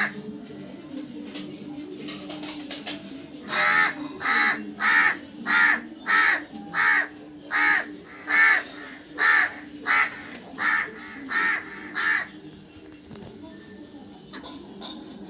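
A crow cawing: one call at the start, then a steady series of about a dozen harsh caws at roughly one and a half a second, followed by a quieter spell with a few faint calls near the end. A steady low hum runs underneath.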